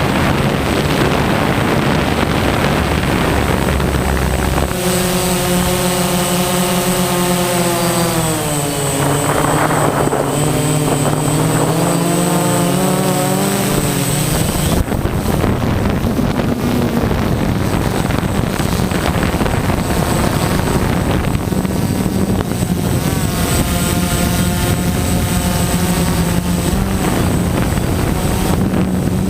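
DJI Phantom quadcopter's motors and 9-inch propellers buzzing loudly in flight, the pitch of the whine rising and falling as the throttle changes.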